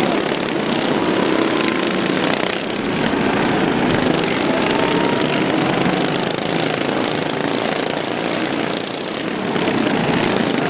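Racing car engines running hard on the circuit: a loud, dense exhaust sound with faint engine notes gliding upward as the cars accelerate, easing a little about two and a half seconds in and again near nine seconds.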